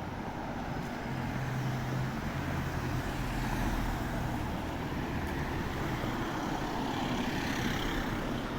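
Steady motor vehicle noise with a low engine hum, swelling a little about six to eight seconds in.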